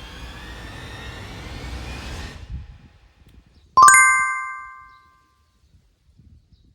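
A rising whoosh sweep that stops about two and a half seconds in, then a single bright bell ding that rings out and dies away over about a second and a half.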